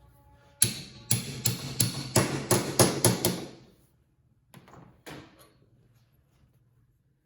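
A quick run of about nine sharp knocks, roughly three a second, each ringing briefly, followed a second later by two lighter knocks.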